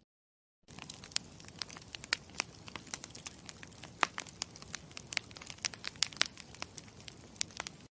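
Campfire crackling: irregular sharp pops and snaps of burning wood over a steady low hiss, starting just under a second in and cutting off suddenly near the end.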